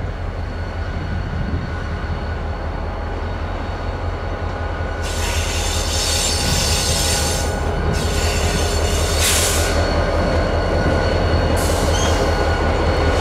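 Diesel-hauled freight train running close by, a steady low rumble with thin squealing tones from the wheels and several bursts of hiss from about five seconds in, growing slowly louder.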